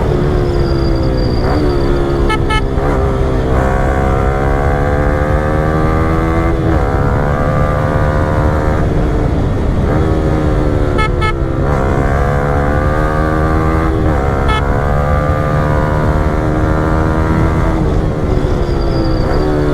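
Yamaha R15 V4's 155 cc single-cylinder engine through a Yoshimura Alpha full-system aftermarket exhaust, under way. Its note rises and drops back over and over as the rider accelerates and shifts through the gears.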